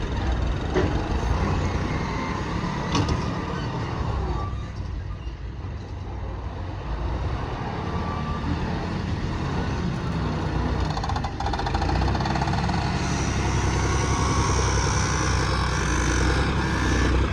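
Heavy diesel earthmoving machinery running steadily, with a few sharp knocks, growing louder in the second half.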